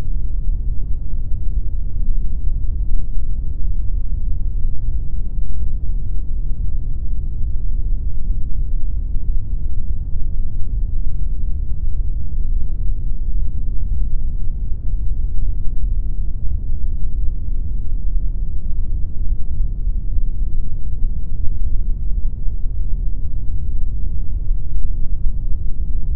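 Steady synthetic pink noise: an even, unchanging hiss, strongest in the bass and with almost nothing in the treble.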